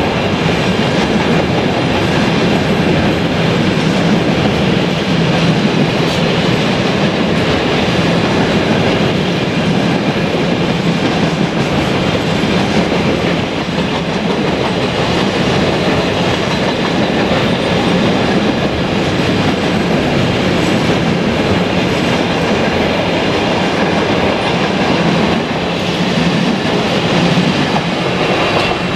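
A train passing, its wagons' wheels running steadily on the rails for the whole stretch.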